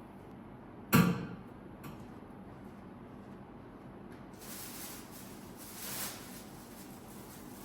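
A sharp knock about a second in and a lighter click shortly after, then rustling and handling noises from about halfway through.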